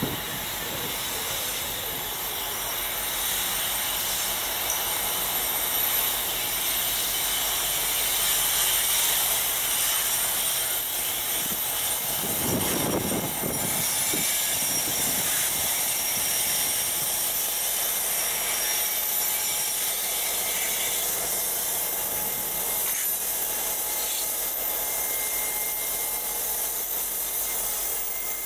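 Norfolk Southern SD40E diesel locomotive leading the two-car route geometry train slowly past, its wheels running on the rail with a steady high-pitched noise. About halfway through, a low rumble swells as the locomotive goes by.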